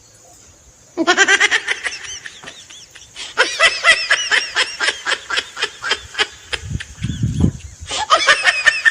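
Someone laughing in long runs of rapid, high-pitched pulses, starting about a second in and breaking off briefly twice.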